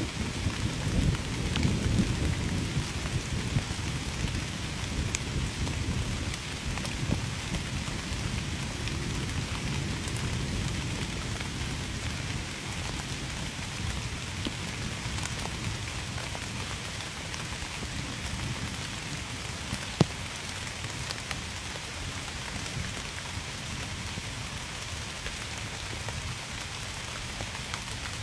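Steady heavy rain falling on surfaces, with a low thunder rumble that eases off over the first few seconds. A single sharp tap about twenty seconds in.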